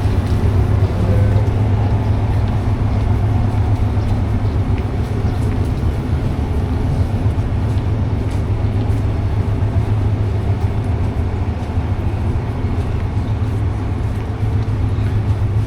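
Diesel train's engine running with a steady low drone and a constant hum under an even rumble.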